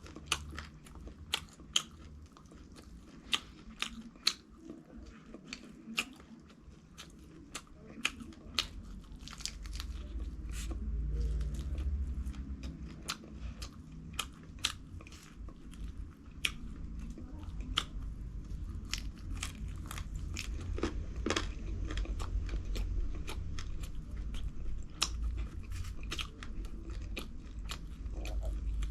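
A person chewing crunchy fried food, with many sharp, irregular crunches all the way through. A low rumble swells in from about ten seconds in.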